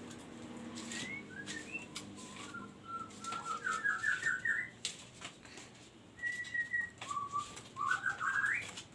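A pet songbird singing whistled phrases: short scattered notes, then a fast run of repeated notes climbing in pitch about four seconds in, one held whistle, and a second climbing run near the end. Sharp clicks are scattered through it.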